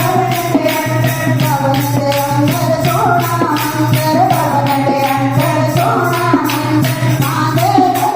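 Devotional bhajan being sung in kirtan style: a sung melody over a steady low drone, with regular jingling percussion strokes keeping the beat.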